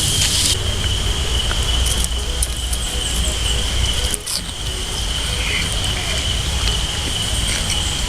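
Steady high-pitched chirring of insects in the woods, over a low rumble, with a wood campfire crackling and giving a few sharp snaps.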